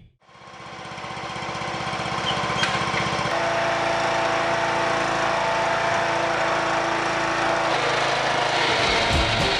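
A small lawn tractor's engine running steadily under load. It fades in over the first second, and its note shifts about a third of the way through.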